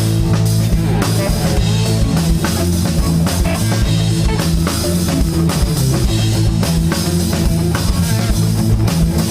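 Live rock band playing without vocals: drum kit keeping a steady beat over electric guitars and bass guitar.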